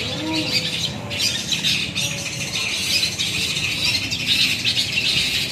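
Many caged long-tailed shrikes (cendet) singing at once on the contest poles: a dense, unbroken chatter of rapid high-pitched notes.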